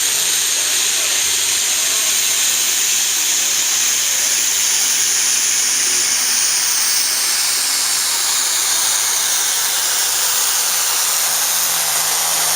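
Super stock pulling tractor's turbocharged diesel running hard, dominated by a loud, steady high-pitched turbocharger whistle and hiss.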